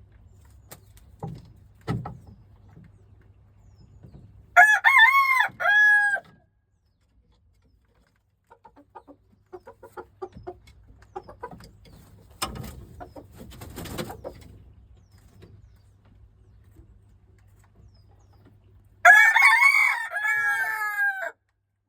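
Silkie rooster crowing twice, about five seconds in and again near the end, each crow a loud run of pitched notes lasting one and a half to two seconds. Softer clucking comes in between.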